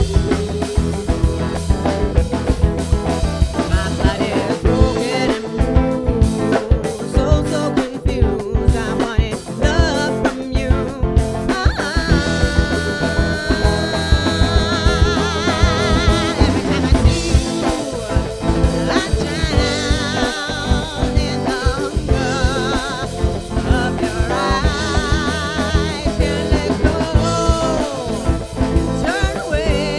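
Funk band playing with drum kit, bass, guitar and Hammond organ; from about twelve seconds in, a lead melody line with a wavering pitch rides over the band.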